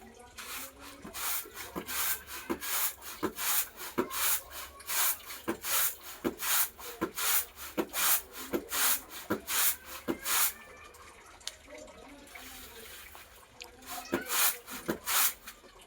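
Pigeon pecking at feed: quick sharp taps of its beak on grain and the feeding surface, about two a second, stopping for a few seconds and starting again briefly near the end.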